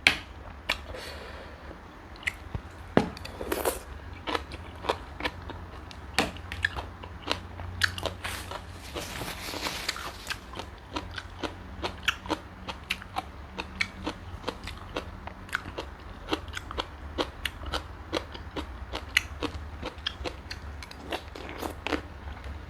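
Close-up mukbang eating sounds: a person biting into and chewing giant river prawn dressed with prahok, with many short crunchy clicks at an irregular pace.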